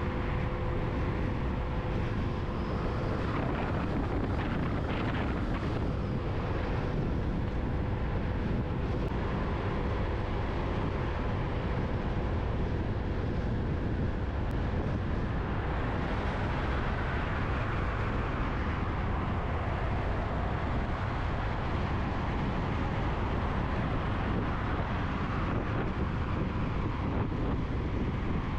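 Motorcycle riding along a road, its engine running steadily under heavy wind noise on the microphone.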